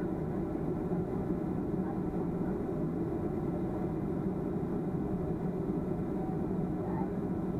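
Steady low drone of a Boeing 737-300's CFM56-3 engines and airflow heard from inside the passenger cabin, even in level.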